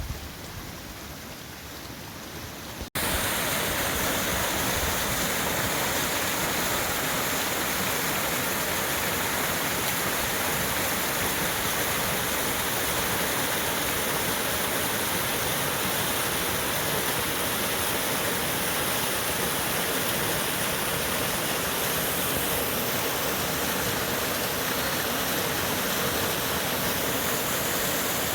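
Rushing water from a stream or waterfall, a steady, even rush of noise. About three seconds in, a quieter stretch with a low rumble cuts off abruptly and the louder rushing takes over.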